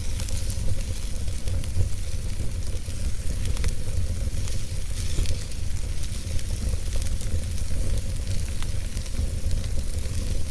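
Fire burning in a fireplace: a steady low rumble and hiss with scattered sharp crackles and pops.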